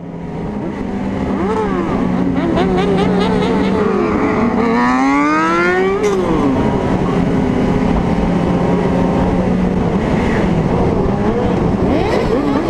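Motorcycle engines running, one revving up in a steep rising pitch a little over four seconds in, then dropping off abruptly about six seconds in; after that the engines keep running with smaller rises and falls in pitch.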